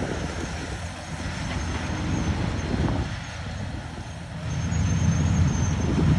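Heavy engine running under load in deep mud, growing louder about four and a half seconds in, with a faint high whine over it.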